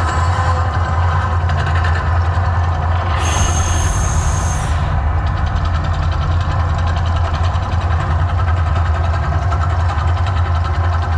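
Mirage volcano show effects: a steady, loud, deep rumble, with one hissing burst lasting about a second and a half a few seconds in.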